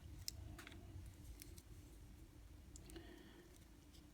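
Near silence with a few faint, scattered clicks of small plastic parts being handled as an N scale locomotive's chassis is taken apart.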